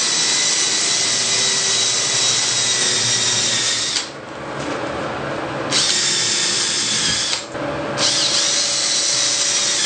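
Power drill boring hinge holes into the shower wall, run with a steady high whine in three bursts, with short pauses about four and seven and a half seconds in.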